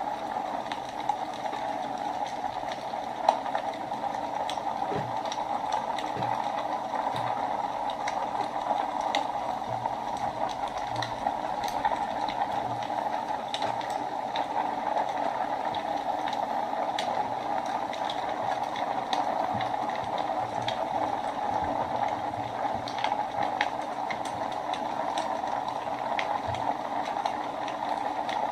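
Fire burning in a fireplace: a steady rushing hiss with irregular sharp crackles and pops throughout.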